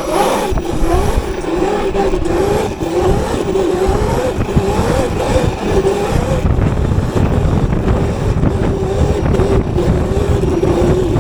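Sur Ron electric dirt bike's Sotion FW01 motor whining as it rides along, the pitch wavering slightly up and down at a fairly steady speed, over heavy wind and road rumble.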